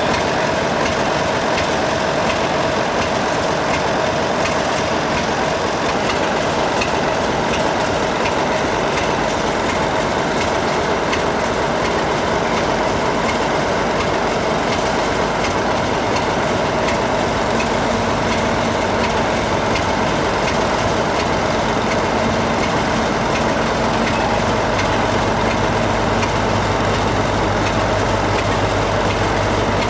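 A passenger train running by, its carriage wheels rolling over the rails in a steady, continuous noise. A low steady hum comes in about halfway through and grows stronger near the end.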